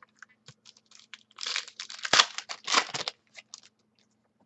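Trading card pack wrapper being torn open and cards handled: short crinkling, rustling sounds with scattered small clicks, busiest from about one and a half to three seconds in.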